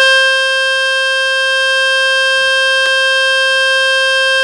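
Samsung Galaxy M33 phone speaker playing a loud, steady buzzing tone from a speaker-cleaning website, which starts abruptly. The tone is meant to shake dust and water out of the speaker grille. A faint click comes about three seconds in.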